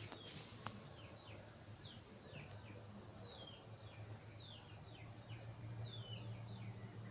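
A small bird calling faintly and repeatedly, each chirp a quick downward-sliding note, over a steady low hum. Two sharp clicks come in the first second.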